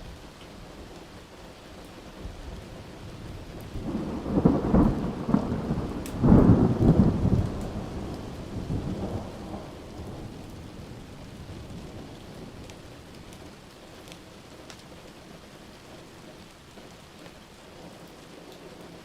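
Steady rain with a roll of thunder starting about four seconds in; it peaks twice in quick succession and then rumbles away over the next few seconds.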